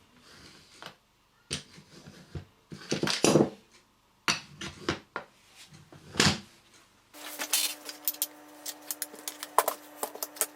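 Irregular knocks and clatters of small hard objects being handled. About seven seconds in, a steady hum starts suddenly, with a run of quick light taps over it.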